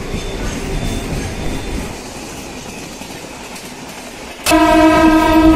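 Train running on the tracks with a low rumble, then about four and a half seconds in a train horn sounds one loud, steady tone that lasts to the end.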